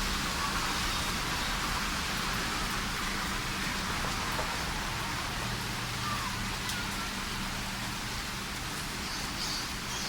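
Steady rain falling, an even hiss with a few faint drips.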